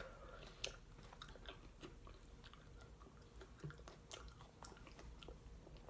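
Faint chewing of raw cactus, with soft, irregular crunching clicks from the mouth.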